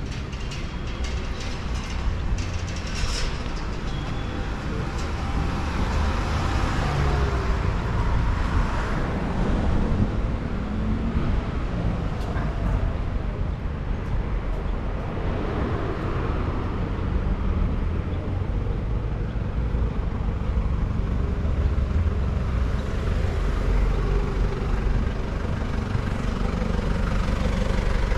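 Street traffic: motor vehicles passing with a steady low rumble.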